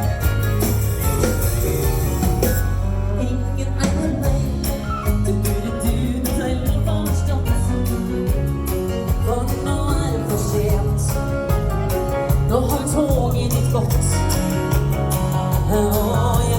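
Live dance-band music with a singer, a steady drum beat and bass, in a country-style dance tune.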